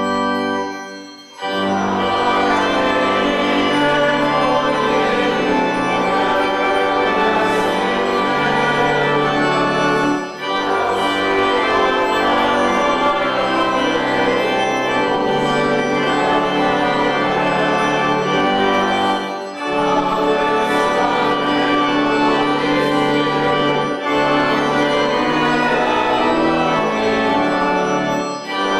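Organ playing a hymn in held chords, phrase by phrase, with short breaks between phrases roughly every nine to ten seconds.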